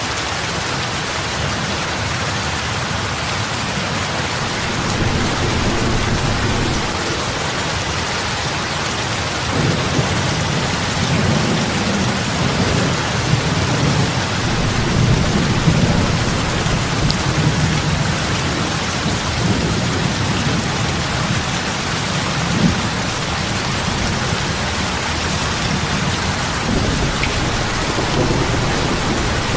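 Steady heavy rain falling on lake water, an even dense hiss of drops. A low rumble swells in about a third of the way through and rises and falls after that.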